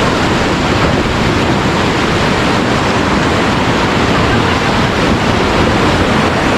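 Loud, steady rush of river whitewater around an inflatable raft on a rafting run.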